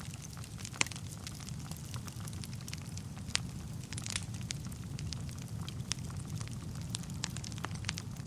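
Wood fire burning in a fireplace: a steady low rumble of flames with irregular sharp pops and crackles from the burning logs, two of them louder, about a second in and about three and a half seconds in.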